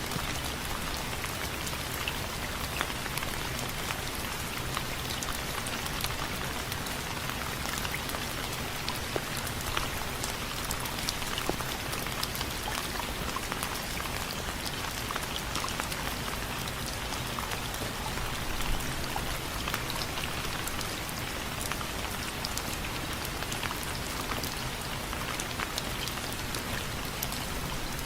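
Steady rain falling on window frames, with many close, sharp drips and ticks of drops hitting the surface over a constant hiss.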